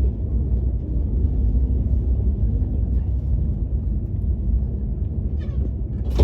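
Steady low rumble of a KTX high-speed train running, heard from inside the passenger cabin.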